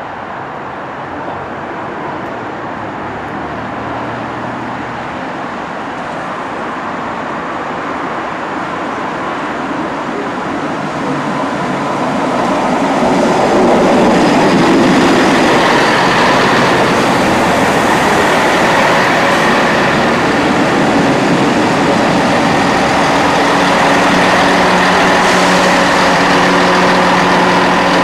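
A train approaching, its noise building over the first half to a loud, steady level, with a steady engine note running through the second half.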